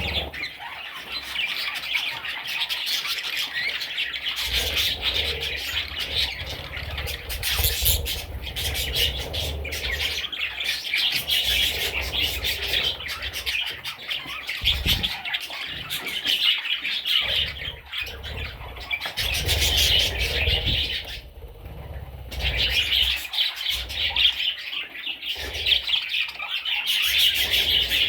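Budgerigars chattering and squawking in a dense, continuous run of raspy calls, which break off briefly about three-quarters of the way through. Low thuds of movement come and go in the first two-thirds.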